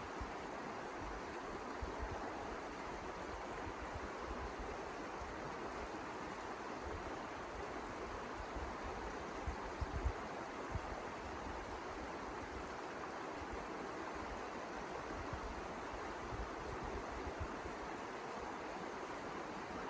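Steady rushing snowstorm wind, with gusts rumbling on the microphone and a few soft knocks about halfway through.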